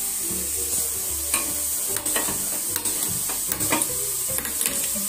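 Gas stove burner lit and running, its flame hissing steadily under a wire-mesh roasting grill, with a few light clicks scattered through.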